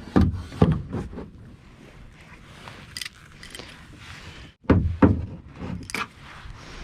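Several dull knocks and thumps against a kayak's hull as gear is handled aboard: two near the start and a cluster about five seconds in, with faint water and wind noise between.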